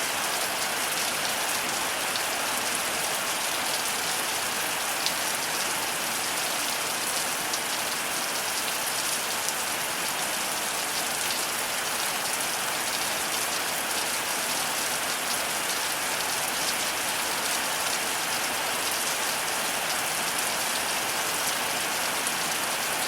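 Heavy rain falling steadily, with a dense patter of drops striking surfaces.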